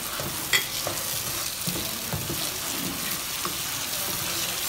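Chopped onions and tomatoes sizzling in oil in a nonstick pot over a high flame while a wooden spatula stirs them, with small scrapes and knocks against the pan; one sharper knock about half a second in.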